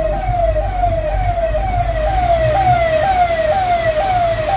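Electronic siren wailing in a quick repeated pattern: a tone that falls, then jumps back up, about twice a second, over a low rumble.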